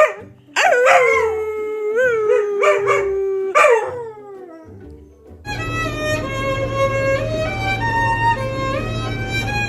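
A dog howling in one long drawn-out note with a few rising yips in it, ending in a short yelp; then, about halfway through, violin music starts and plays a slow melody.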